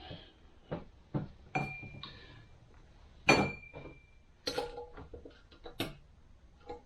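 Metal transmission parts being handled on a workbench: a series of light clinks and knocks, the loudest about three seconds in, two of them leaving a short high ring.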